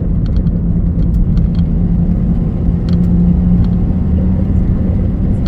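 A vehicle running: a steady low rumble with a constant hum, with a few faint ticks over it.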